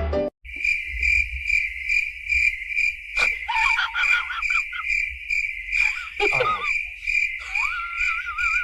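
A cricket chirping steadily, about two and a half chirps a second, with a few short wavering calls over it near the middle and towards the end.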